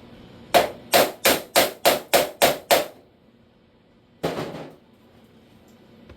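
Hammer striking sheet-metal body panel: eight quick blows at about three a second, then one longer noise lasting about half a second.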